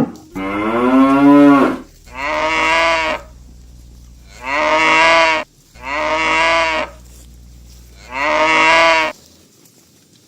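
Oxen mooing: five loud moos of about a second each, the first rising in pitch and the others fairly level.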